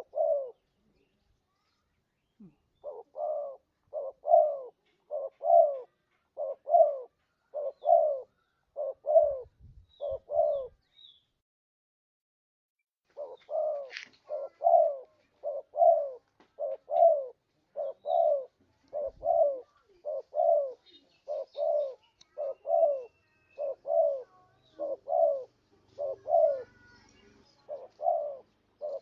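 Spotted dove (tekukur) cooing from a lure-call recording: short low coo notes, mostly in pairs, repeated about once a second, with a brief pause about eleven seconds in before the cooing resumes.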